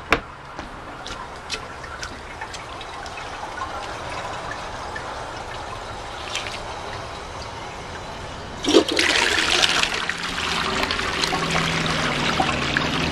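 A 1999 Cisa toilet flushing. After a few faint clicks, the flush starts suddenly about nine seconds in with a loud rush of water that keeps going. The bowl holds table tennis balls and a washcloth, and the owner thinks it is partially clogged.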